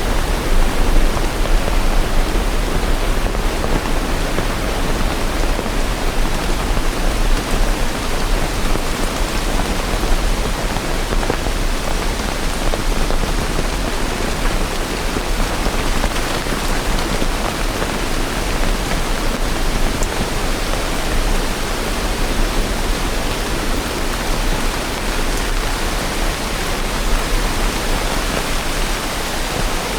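Steady rain: an even, unbroken hiss across the whole range with a deep low rumble underneath, no separate drops or thunder standing out.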